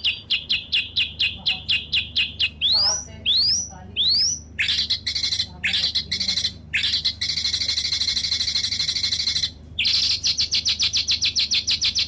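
A small bird singing. It gives rapid repeated high chirps, about five a second, then three rising whistles, then a fast buzzy trill that stops for a moment before the quick chirping starts again.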